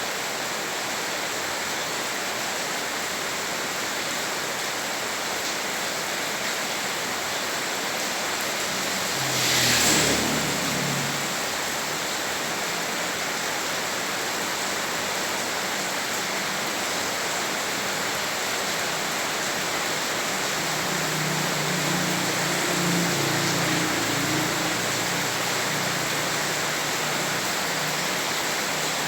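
Heavy rain pouring steadily onto a flooded street. About ten seconds in there is a brief louder rush, and from about 21 to 25 seconds a low rumble rises under the rain.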